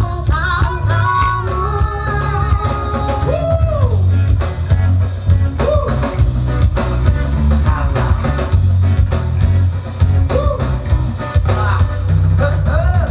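A recorded song with singing, guitar and drums played loudly through a sound system's speakers and subwoofers, with a heavy, pulsing bass line.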